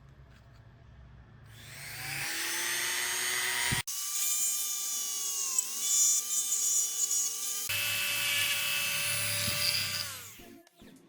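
Small electric motor whining as it spins up with rising pitch, runs steadily, then winds down near the end with falling pitch. There is an abrupt break about four seconds in.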